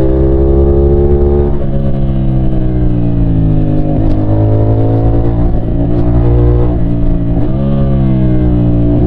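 CFMOTO 450SR's 450cc parallel-twin engine running under way, its revs rising and falling, with sudden drops in pitch about a second and a half in and again near the end, like gear changes.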